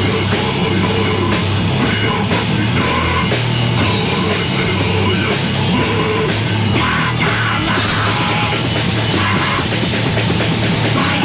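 Loud, heavily distorted heavy metal / punk music from a 1980s demo recording: distorted guitars over a steady, driving drum beat.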